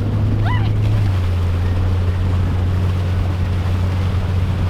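Motorboat engine running steadily while towing a water-skier, a low hum that settles slightly lower in pitch about a second in, with wind on the microphone. A short rising whoop comes about half a second in.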